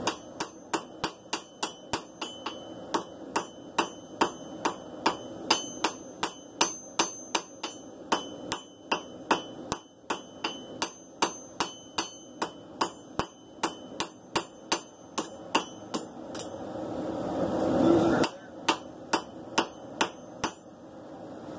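Hand hammer striking hot san mai steel on an anvil in light, steady blows, about two to three a second, each with a bright metallic ring, drawing the blade's point. Near the end the blows stop for a rising rush of noise, then a few more strikes follow.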